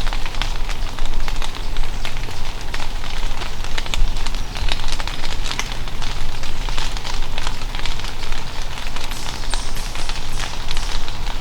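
Loud, continuous close rustling and crackling, a dense run of small clicks and scrapes over a low rumble, with a few short falling high notes near the end.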